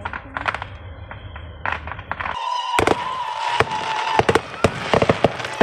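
Fireworks going off: scattered sharp pops at first, then, about halfway through, a dense run of crackling and popping, with a steady whistle-like tone for a couple of seconds.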